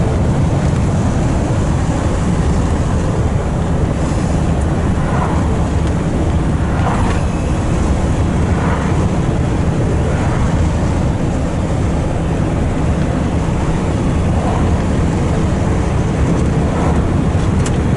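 Steady, loud low rumble of a truck running, heard from inside the cab.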